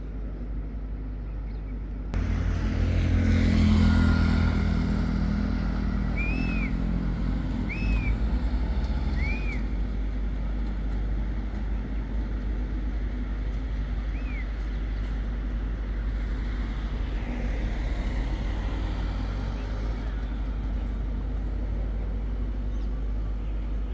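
Road traffic: a motor vehicle passes with a low rumble in the first few seconds over a steady background hum. A few short chirps sound in the middle.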